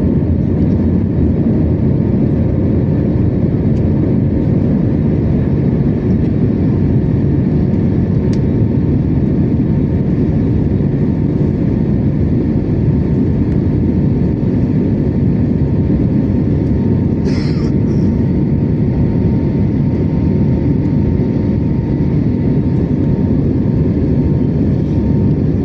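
Steady roar of engine and airflow inside the cabin of an Airbus A321-271NX, whose Pratt & Whitney PW1100G geared turbofans run at a constant level with a faint steady hum underneath. There is a brief sharp click or rattle about 17 seconds in.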